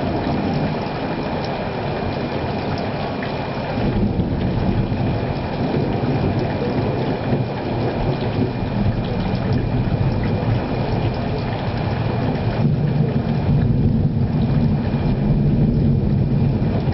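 Thunder rumbling, with a long low rumble that swells about four seconds in and again near the end, over a steady hiss.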